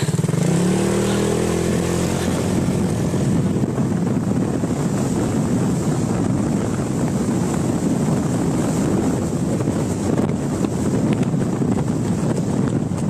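Motorbike engine pulling away, its pitch climbing as it accelerates in the first couple of seconds, then running steadily under heavy wind noise on the microphone as the bike rides along.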